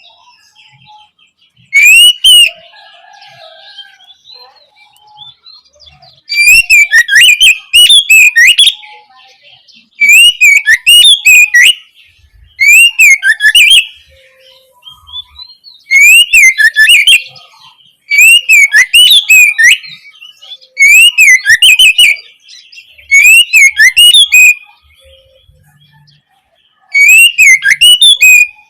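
Oriental magpie-robin (kacer) singing its opening song: loud, short phrases of quick rising and falling notes, repeated about every two to three seconds with brief pauses between.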